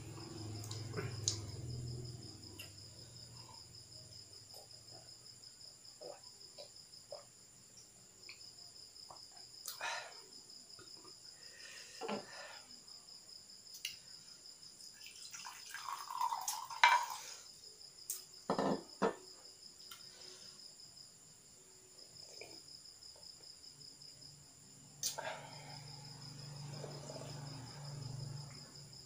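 Crickets trilling steadily in the background, a high pulsing chirr with no breaks. Scattered sharp clicks and knocks sound over it, with a louder cluster of them a little past the middle.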